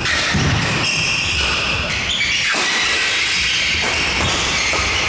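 Badminton play in an indoor sports hall: footsteps thudding on the court, shoes squeaking and shuttlecock hits, with a hall echo.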